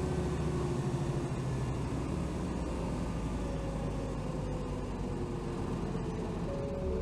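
Running sound of a 2007 Hino Rainbow HR city bus (BDG-HR7JPBE), heard inside the bus under way. The engine note falls over the first second or so, then a steady faint whine carries on over the low engine and road noise.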